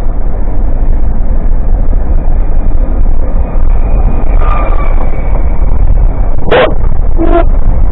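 A dog gives two short barks a little over a second apart near the end, with a fainter yip a few seconds earlier, over a loud, steady low rumble.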